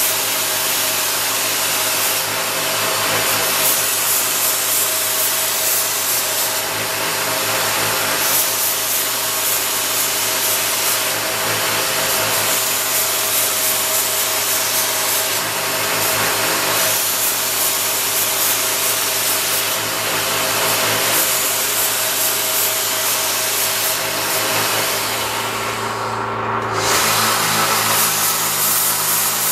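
Kitchen knives being ground on a powered sharpening machine: a steady grinding hiss that swells with each pass of a blade every few seconds, over the steady hum of a small engine running. The grinding stops briefly near the end.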